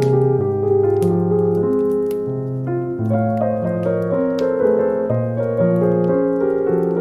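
Slow solo piano music: held bass notes that change about once a second under a quiet melody.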